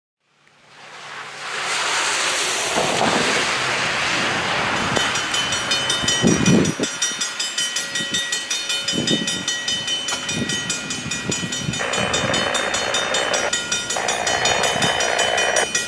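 Steady hiss of rain and wind as a diesel freight locomotive approaches in the distance, fading in from silence at the start. Near the end come two long, sharply started and stopped sounds that fit blasts of the locomotive's horn.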